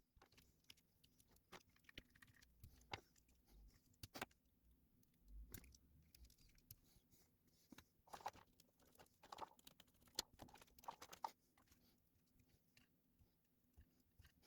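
Near silence broken by faint, scattered small clicks and taps of hands and tools working on a Nintendo Switch Joy-Con controller, busiest in the second half.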